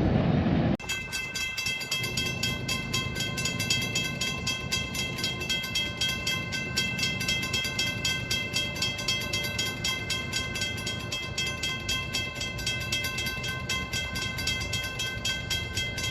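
Railroad grade-crossing bell ringing in a fast, even rhythm, starting suddenly about a second in, over a low rumble.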